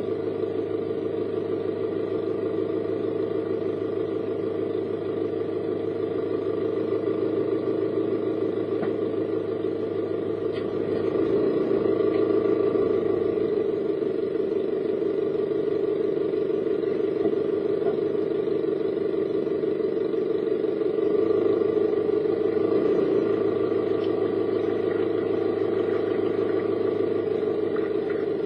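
A car on the move: steady engine and road noise, swelling slightly twice as it picks up speed.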